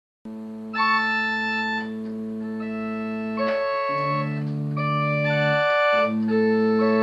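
Organ-style keyboard music: held chords that change every second or so, starting abruptly out of silence just after the start.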